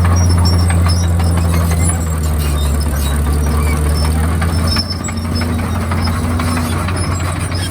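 Komatsu D51PX crawler bulldozer's diesel engine running under load, a steady low drone that eases off a little about five seconds in, with short high squeaks over it.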